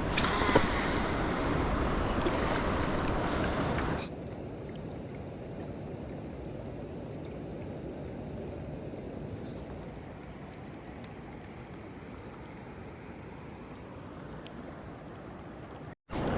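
Steady rushing of flowing river water, which drops suddenly to a quieter level about four seconds in.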